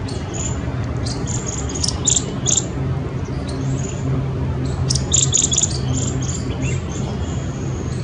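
Birds chirping: short, high chirps in quick runs, thickest about two seconds in and again around five seconds in, over a steady low hum.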